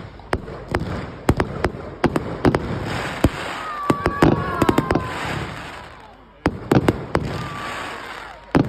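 Fireworks going off: many sharp bangs and crackles at irregular intervals, with a few falling whistles, and a brief lull about six seconds in.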